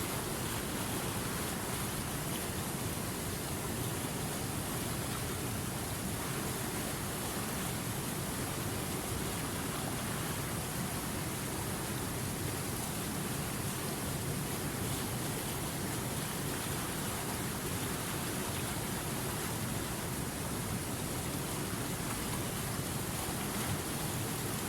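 Running river water: a steady, even rush of flowing water.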